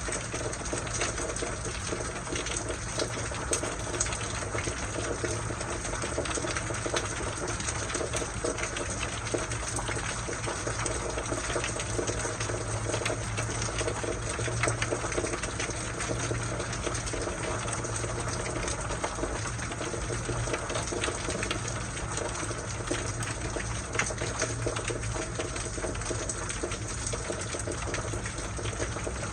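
Steady rain shower falling, a constant hiss of rainfall dense with small drop impacts. A low steady hum runs underneath.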